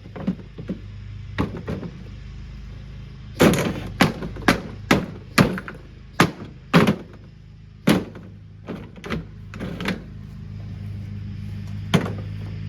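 Repeated hard blows striking the portable washing machine during its destruction: a few light knocks, then a run of about eight heavy strikes roughly two a second, lighter knocks, and one last hard strike near the end, over a steady low hum.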